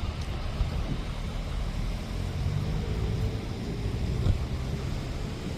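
Steady low rumble of wind on the microphone mixed with engine noise from passing traffic.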